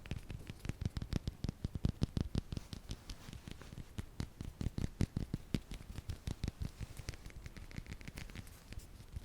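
Soft, quick fingertip tapping on an object, several uneven taps a second.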